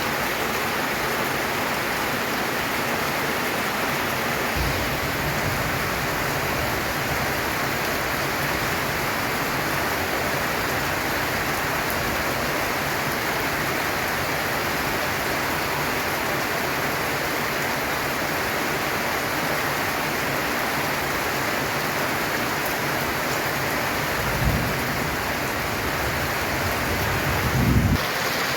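Steady heavy rain drumming on a corrugated tin roof, with short low rumbles about four seconds in and twice near the end.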